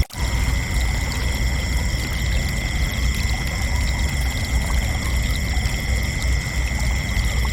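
Crickets chirping in a steady, continuous trill of several high pitches over a low rumbling background noise. The sound cuts out for an instant at the very start.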